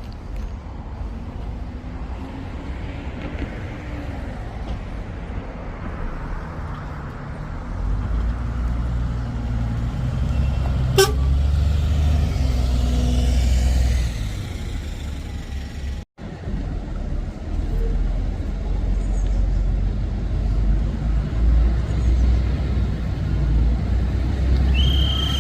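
Bus engines running at the roadside, a low rumble that swells about eight seconds in as a bus passes. A sharp click comes near the middle, and a short, high vehicle horn toot near the end.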